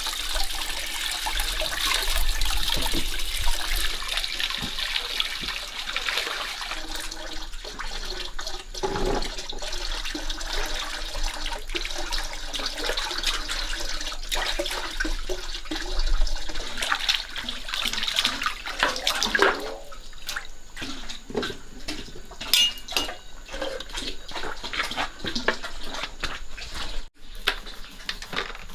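Running water splashing and rushing, with scattered knocks and clatter of things being handled. The water thins out about twenty seconds in, leaving mostly sharp clicks and knocks.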